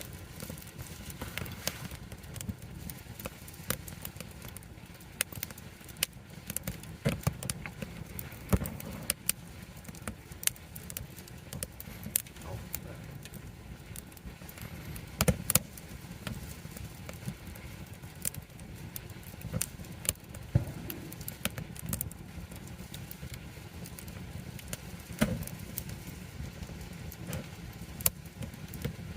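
Wood campfire in a fire stand crackling, with irregular sharp pops of burning wood over a steady low rumble; the loudest pops come about a third and halfway through.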